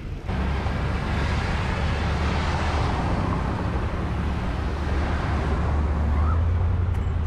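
Wind rushing over the microphone while cycling, a steady loud rush with a heavy low rumble, mixed with road and traffic noise.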